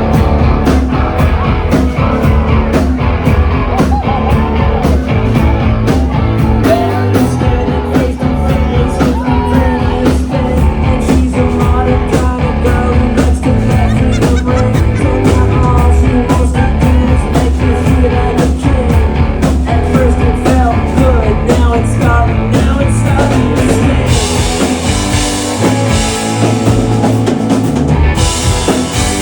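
Rock band playing live, with drum kit and guitar driving a steady beat. From about 24 seconds in, cymbals wash in more heavily.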